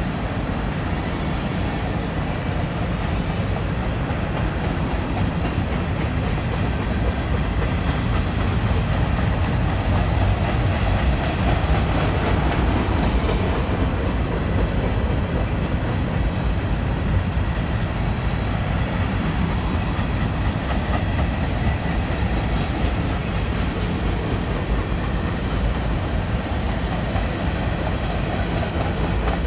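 A train rolling past with a steady rumble of railcars on the rails, a little louder around the middle.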